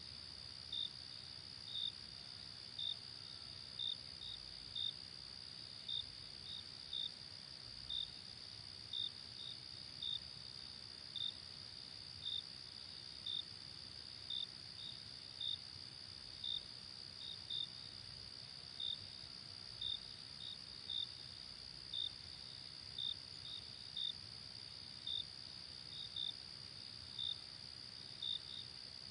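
Night insects calling: a continuous high trill with separate short chirps, about one a second, standing out over it.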